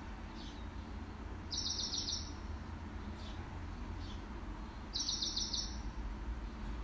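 A bird's short, fast trilled chirp, heard twice about three seconds apart, over a low steady hum.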